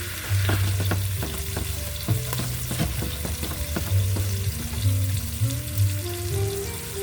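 Garlic frying and sizzling in a pan while being stirred, with many short clicks of the utensil against the pan.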